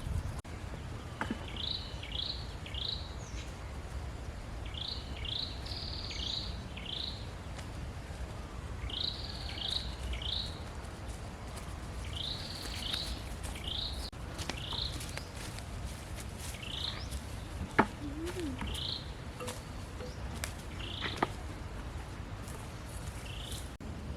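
A bird chirping repeatedly: short, clipped notes in quick groups of two to four, over a steady low rumble. Two sharp clicks come in the second half.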